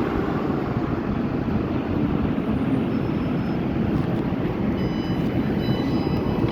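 Electric train running at the platform, a steady rumble, with faint high-pitched squeals appearing over the last couple of seconds.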